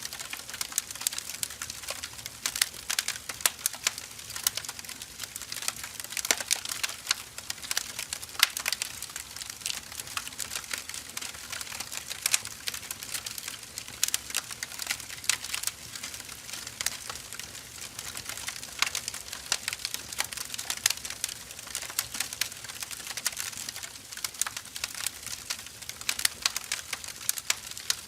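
Firewood burning in an open fire, crackling steadily with many irregular sharp pops and snaps over a soft hiss.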